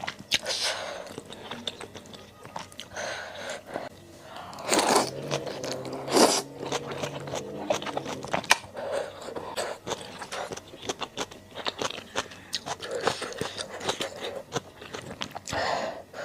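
Close-miked chewing and crunching of malatang, with a dense run of wet mouth clicks and two louder bites about five and six seconds in.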